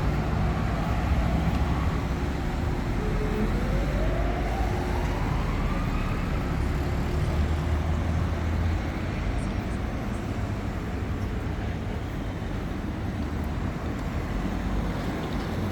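Night street traffic with a steady low rumble of passing vehicles. About three seconds in, a rising whine climbs for a few seconds, as from a vehicle accelerating.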